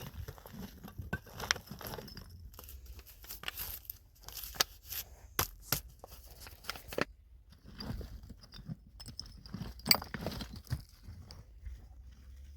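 Irregular clicks, knocks and crunching rustles of things being handled, with a short pause a little past halfway.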